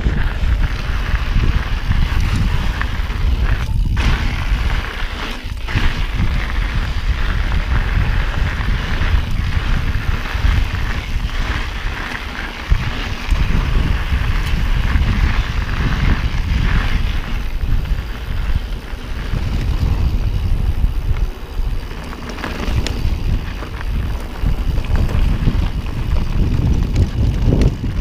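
Wind buffeting the camera microphone of a mountain bike in motion, a steady heavy rumble, over the tyres rolling on a dirt trail with scattered clicks and rattles from the bike.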